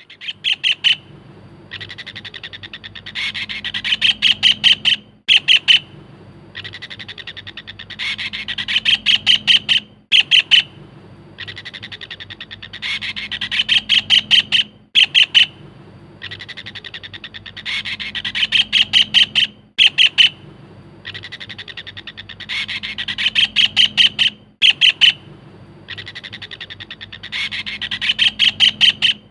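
White-throated kingfisher (cekakak belukar) calling a loud rattling trill. A steadier run of notes builds into a string of louder, rapid notes, and the same call repeats about every five seconds, six times over.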